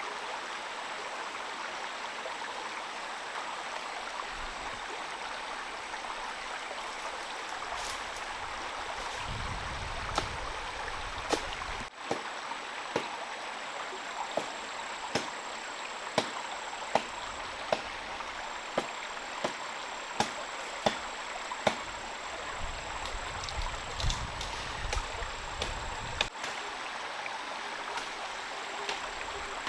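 Steady rain falling, with a run of sharp taps, about one a second, through the middle, and a low rumble twice.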